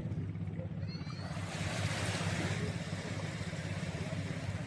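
A boat's motor engine runs steadily with a low, rapidly pulsing drone. About a second and a half in, a brief rushing hiss swells and fades over it.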